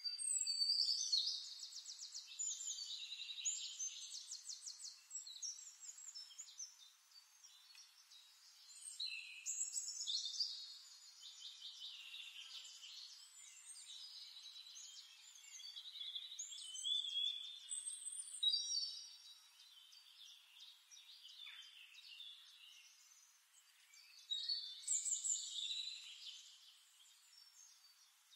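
Birds singing: phrases of high chirps and fast trills come every few seconds, with quieter gaps between them.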